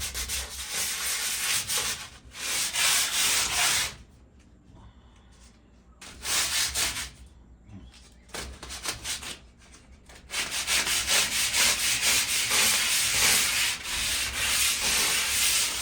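Sandpaper worked by hand over the rusted metal patio table, taking off surface rust ahead of painting. The scratchy rubbing comes in spells, with pauses about four seconds and about eight seconds in, then runs steadily from about ten seconds on.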